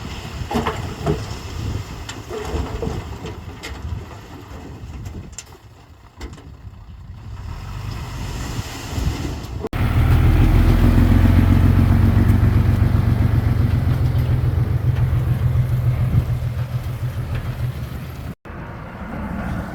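Diesel engines of heavy earthmoving machinery running, with scattered sharp clanks in the first half. About halfway there is an abrupt cut to a much louder, steady engine sound, with another brief cut near the end.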